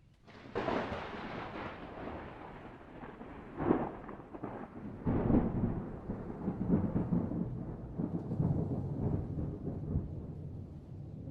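Thunder: a clap breaks just after the start, sharper cracks follow about four and five seconds in, and it then rolls on as a long low rumble.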